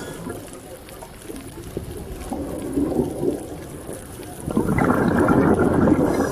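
Underwater water noise: a low rushing and bubbling that grows suddenly louder about four and a half seconds in.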